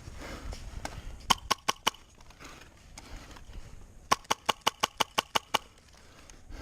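Airsoft gun firing single shots: four quick cracks about a second in, then after a pause a string of eight at about five shots a second.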